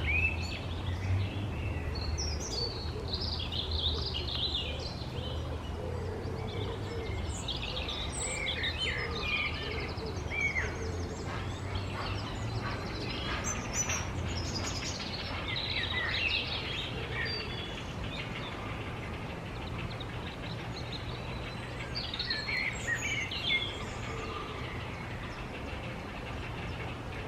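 Birds chirping and calling in short, bending notes, busiest in the first half, over a steady low rumble.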